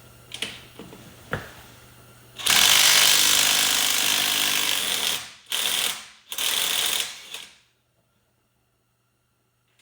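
Impact wrench rattling a bolt loose: a long run of about three seconds, then two short bursts, with a few light clicks of the socket before it starts.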